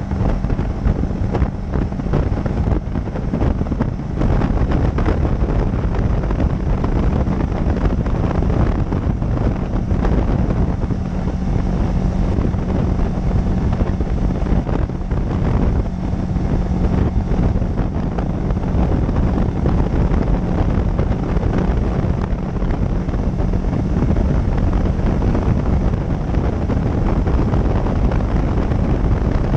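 Motorcycle riding at steady speed: steady engine hum with heavy wind buffeting on the helmet-cam or dashcam microphone.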